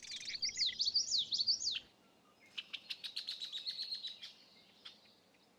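Common yellowthroat singing one phrase of quick, repeated up-and-down notes. About two and a half seconds in, a second marsh bird gives a rapid, chattering trill.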